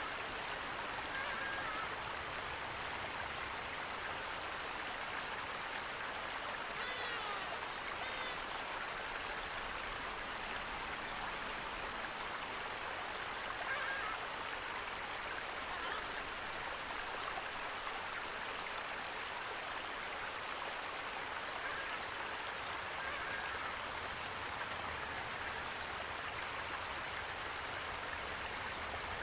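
Steady rushing of flowing water from a stream or small waterfall, with a few faint bird chirps about seven and eight seconds in.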